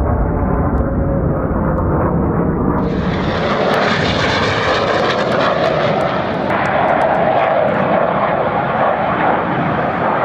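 BAE Hawk T1 jets of the Red Arrows display team flying overhead, a loud steady jet noise. The sound changes abruptly about three seconds in, where the footage is cut.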